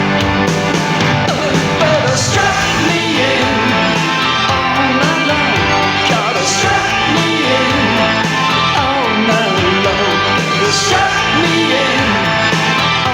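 Rock music from a full band, playing steadily at full level.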